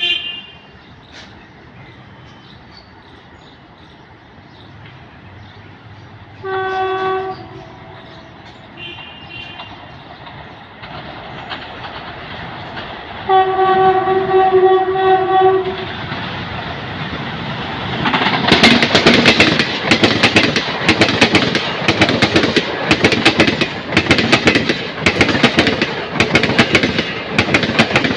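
WAP5 electric locomotive's horn sounding a short blast about six seconds in and a longer, louder one about thirteen seconds in as the express approaches. From about eighteen seconds the train passes close, its wheels clattering rhythmically over the rail joints, loud and continuous.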